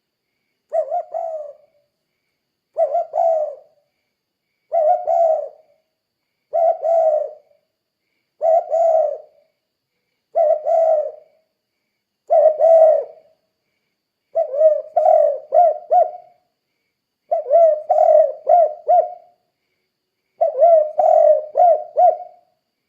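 Spotted dove (tekukur) cooing in about ten low phrases, each roughly a second long and spaced about two seconds apart. The later phrases break into three or four quick notes.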